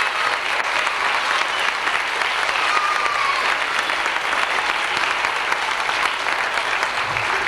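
Audience applauding steadily in a large hall, a dense sustained clapping with no break.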